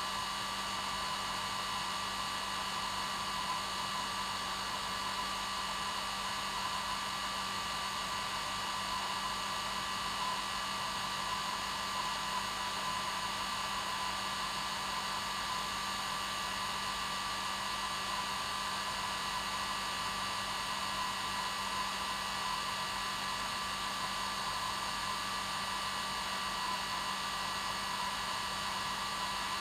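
Hair dryer running steadily: an even rushing hiss with a low hum and a higher whine held at one pitch.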